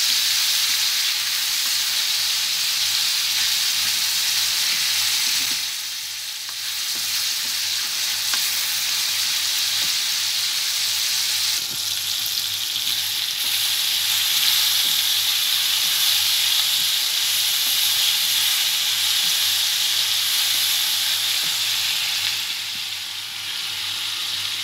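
Chopped tomatoes, onions and green chillies sizzling in hot oil in a wok as they are stirred with a wooden spatula. The sizzle is steady, dipping briefly about six seconds in and again near the end.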